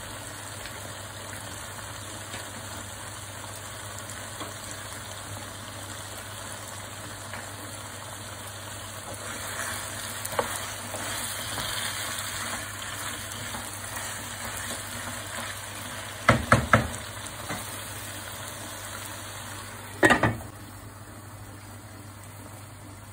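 A wok of chicken karahi sizzling over a steady low hum, stirred with a wooden spatula about halfway through. Three quick knocks follow, then a clatter as the glass lid goes onto the wok near the end, after which the sizzle is muffled.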